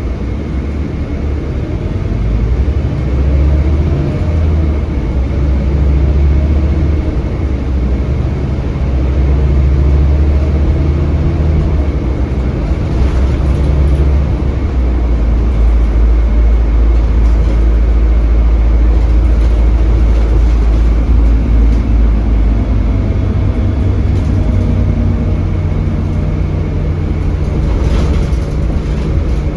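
Scania K320HB bus with its DC9 engine running under way, heard on board: a loud, low engine drone with road noise that steps up and down in pitch several times.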